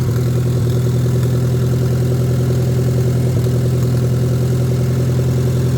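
Tractor engine idling steadily, just started after being cranked.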